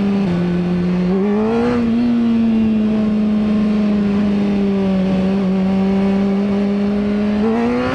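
Honda CBR600RR inline-four engine running steadily under way. Its pitch dips briefly near the start, then rises a little at about a second and a half and again near the end.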